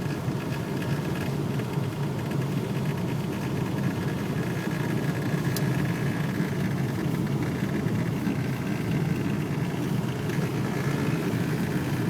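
Steady engine and road noise of a car driving through heavy snow, heard from inside the cabin, with a faint steady whine above the rumble. There is one short click about five and a half seconds in.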